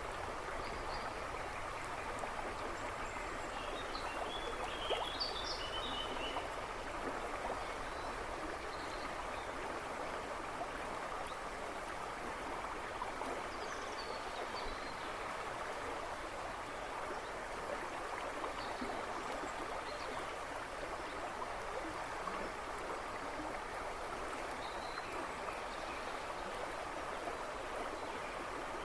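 A river rushing and babbling steadily, with a few faint bird chirps in the background, most of them about five seconds in.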